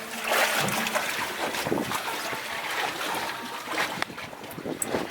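Water lapping and splashing against the hull of a fishing boat at sea, in irregular small splashes.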